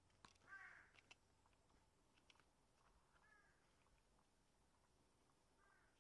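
Three faint, short bird calls, the first about half a second in and the clearest, the others weaker, with a couple of soft clicks.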